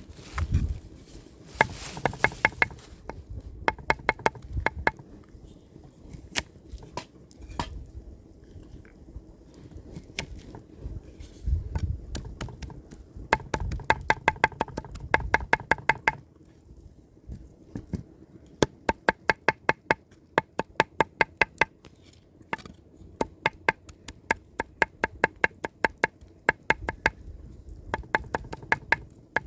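A knife chopping quickly on a cutting board, about five strokes a second, in several runs of a few seconds each with short pauses between them.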